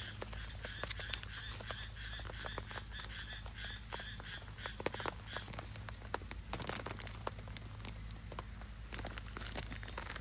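A frog calling in an even train of rasping pulses, about four a second, that stops about five seconds in. Scattered sharp clicks and taps continue throughout.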